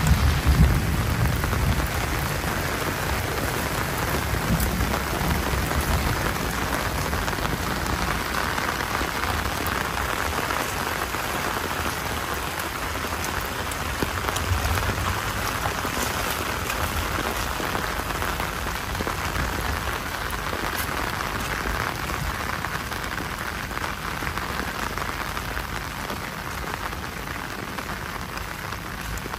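Heavy rain falling steadily, with a low rumble at the start that dies away within the first second or two.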